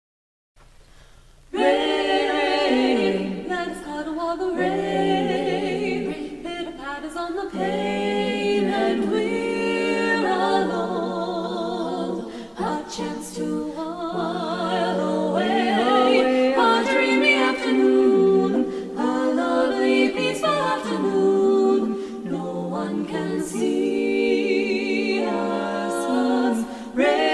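Women's barbershop quartet singing a cappella in four-part close harmony, coming in about a second and a half in.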